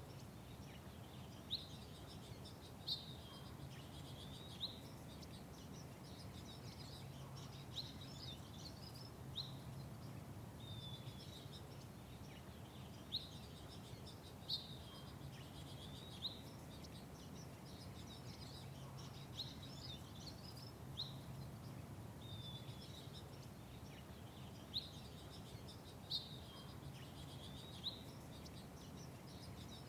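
Small birds chirping: short, sharp chirps repeating every second or two over a steady low background hum.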